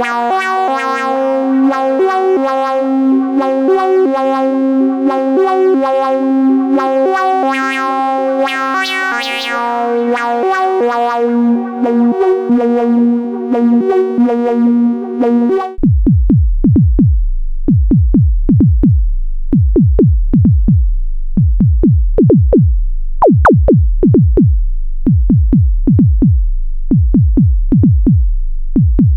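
Synthesizer chords played through a 12 dB/oct analog Eurorack filter, held tones with a changing timbre. About 16 seconds in the sound cuts abruptly to a rhythmic run of short percussive hits, each a tone that drops fast in pitch into deep bass like a kick drum. This is typical of the filter driven into self-oscillation and pinged to make sine-wave kicks and percussion.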